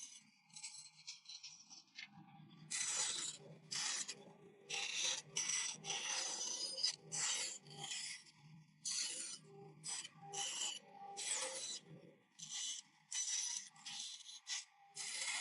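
A blade cutting and scraping across wood in a series of short, scratchy strokes, about one to two a second at an irregular pace. The strokes are fainter and sparser for the first two seconds or so.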